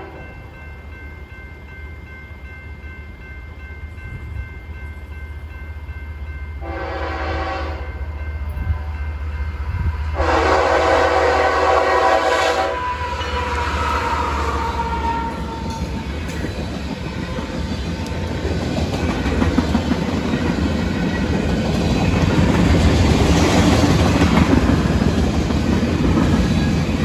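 CSX freight train at a grade crossing: the crossing bell rings, then the locomotive's air horn sounds twice, a short blast about 7 seconds in and a longer one about 10 seconds in. The lead diesel locomotive passes about 14 seconds in, followed by the rumble and clickety-clack of freight cars rolling by, loudest near the end.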